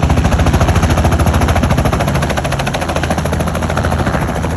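Helicopter rotor blades chopping: a loud, rapid, even beat over a steady engine drone.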